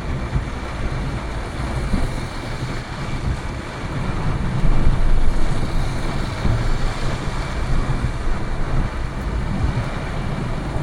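Wind buffeting the microphone in a thunderstorm: a rough, steady rushing noise, heaviest in the low end, that swells for a second or two about halfway through.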